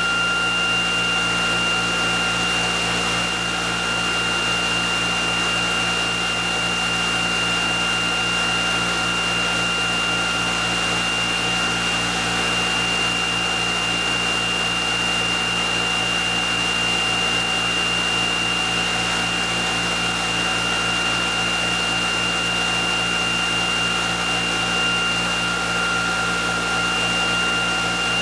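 Electric motor driving a generator rig at speed, running steadily with a whirring hum and a constant high-pitched whine.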